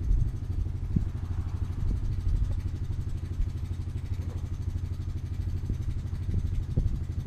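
A steady low rumble with a few light knocks scattered through it.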